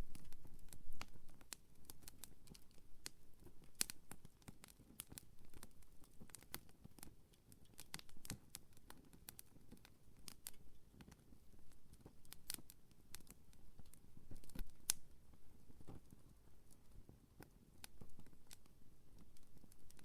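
Wood campfire crackling, with irregular sharp snaps and pops from the burning wood; a few louder snaps stand out among the many small ones.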